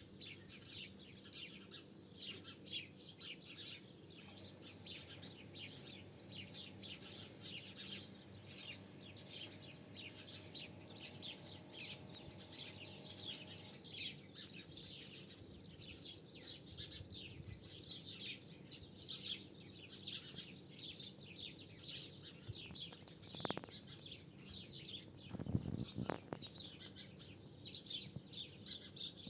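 Birds chirping continuously, many quick high notes overlapping. Two short bumps come about three-quarters of the way through, the second the loudest sound.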